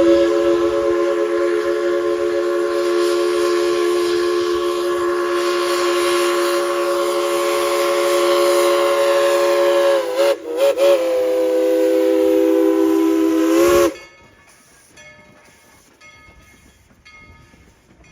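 Chime whistle of Tweetsie Railroad's No. 190, a 2-8-2 steam locomotive, blown in one long blast of several notes sounding together. The blast wavers briefly about ten seconds in and cuts off sharply near fourteen seconds, leaving quieter train running sounds.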